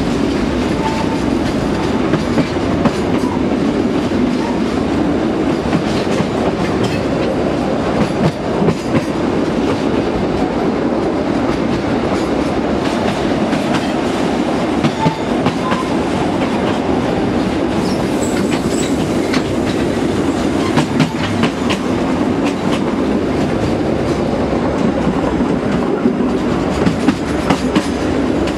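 A narrow-gauge (760 mm) train running along the track, with a steady rumble of the wagons and frequent clicks and knocks of the wheels over the rail joints.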